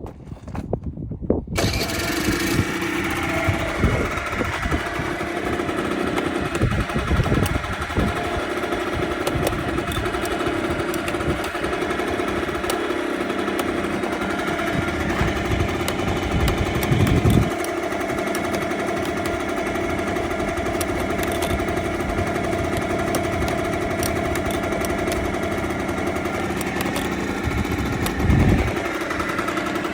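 Honda Tact AF30 scooter's small two-stroke engine starting about a second and a half in, then idling steadily, with two brief louder swells, one midway and one near the end.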